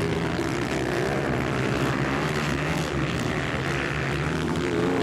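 160cc dirt-track racing motorcycles running under load, their engines droning steadily with small rises and falls in pitch as the riders work the throttle.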